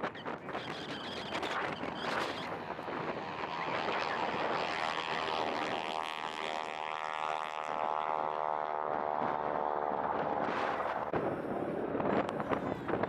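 Fixed-wing airplane flying past, its engine sound swelling in the middle and fading again, with wind on the microphone.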